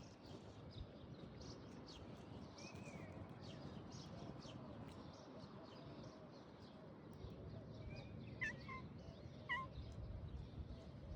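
Faint birds chirping: many short, high chirps scattered throughout, with a few sharper, louder calls toward the end over a low background hum.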